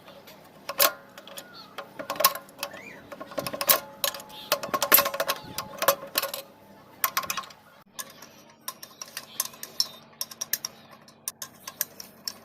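Irregular sharp metallic clinks and knocks of hand tools and Rajdoot 175 engine parts being handled, the louder strikes ringing briefly; busiest in the middle, sparser near the end.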